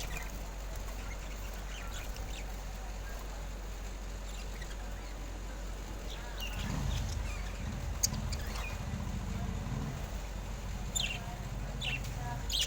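Parrots calling, with scattered short squawks and chirps at intervals, over a steady low hum.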